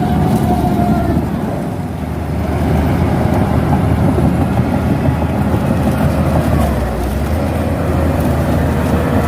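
Shantui DH17C2 bulldozer's diesel engine running steadily under load, easing off briefly about two seconds in and again near seven seconds.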